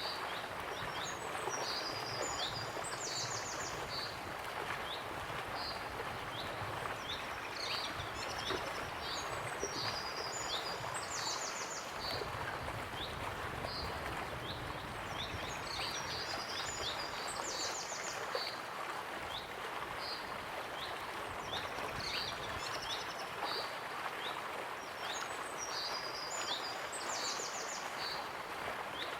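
Steady rush of a waterfall, with songbirds singing high, quick chirping phrases that recur every several seconds over it.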